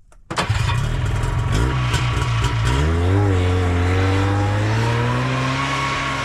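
A vehicle engine starts suddenly and runs loudly. About three seconds in its pitch rises, then it holds a steady pitch.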